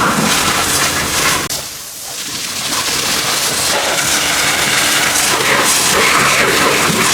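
Loud steady hissing noise from a car-cleaning tool at work. It cuts off sharply about one and a half seconds in and builds back up over the next few seconds.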